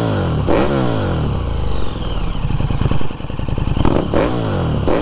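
KTM 1290 Super Duke R's big V-twin engine through an SC Project SC1-R carbon fiber slip-on exhaust, with a deep, bassy note. The revs drop sharply a few times near the start and rise and fall again about four seconds in.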